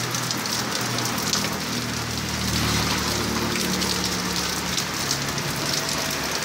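Heavy rain falling steadily, with a faint low hum underneath for a few seconds in the middle.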